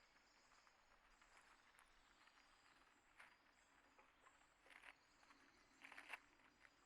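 Faint outdoor ambience with soft, irregular taps and scratches, a few stronger ones about three, five and six seconds in, over faint high chirping.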